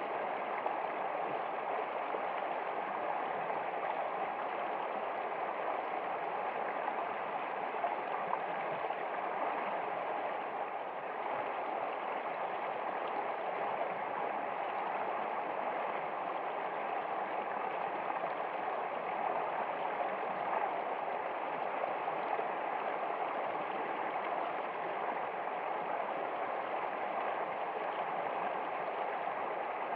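Running water of a stream, flowing steadily with an even, unbroken babble.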